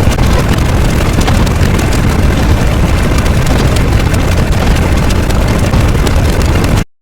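A loud, steady roaring sound effect, engine-like and noisy with no clear pitch, that cuts off suddenly near the end.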